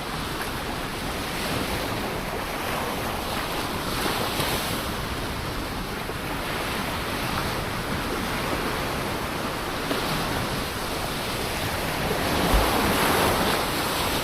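Ocean surf washing continuously, with a wave surging louder near the end.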